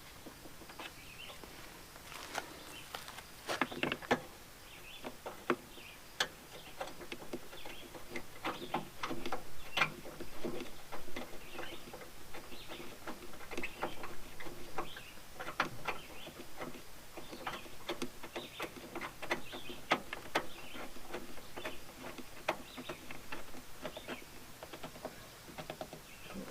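Car engine-bay plastic covers and trim being fitted loosely back in place by hand: irregular clicks, taps and light rattles of plastic, with a few louder knocks.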